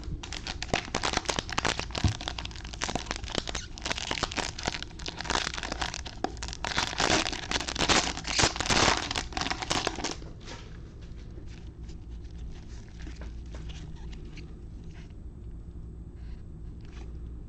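Plastic wrapping of trading-card packs being torn open and crinkled, a dense crackling for about ten seconds. After that it drops to quieter handling with scattered light clicks as the cards are taken out.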